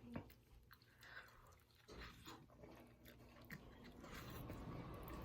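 Faint chewing of a bite of smoked chicken leg quarter, with small soft clicks and crunches from the mouth.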